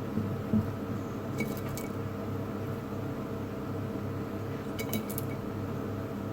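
A few light clinks of glass or crockery, in two brief clusters, with a dull knock near the start, over a steady appliance-like hum.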